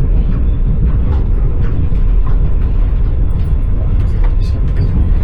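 Passenger train running on the rails, heard from inside the carriage: a steady low rumble with scattered knocks from the wheels.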